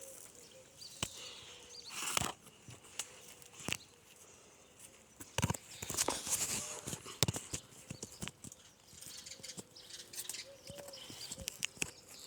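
Irregular knocks, scrapes and rustles of branches and bark as someone climbs down a tree, with handling noise on the camera microphone.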